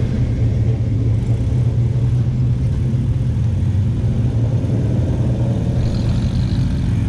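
Classic car engines running with a steady low rumble as cars drive past.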